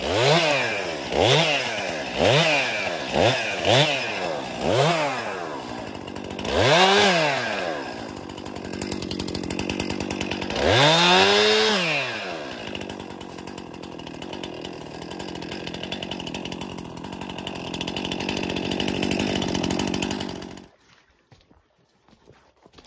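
Chainsaw engine revved in a quick run of short throttle bursts, about one a second, then two longer revs. It then runs steadily before shutting off abruptly near the end.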